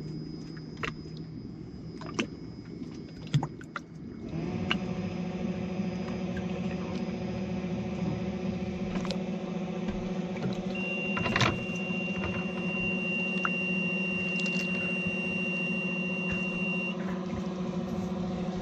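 A few sharp clicks, then an electric ballast pump switches on about four seconds in, spinning up briefly and then running with a steady hum as it pumps water into a transom ballast bag.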